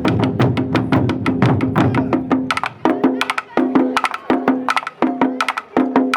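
Japanese taiko drums playing a fast rhythm of sharp, ringing strikes. The beats are dense at first, over a deep low drum rumble. Nearly halfway through the rumble drops out and the strikes come in short groups with brief pauses between them.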